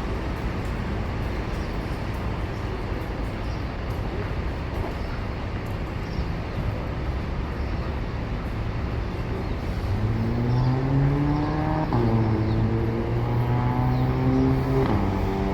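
A steady rumble of vehicles passing. About two-thirds of the way in, a vehicle motor speeds up with a humming tone that climbs in pitch and drops back twice, as if stepping up through gears while it accelerates.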